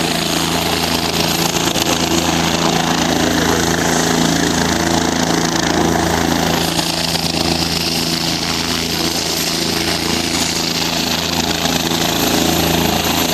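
Steady engine drone with the noise of road traffic, running without a break.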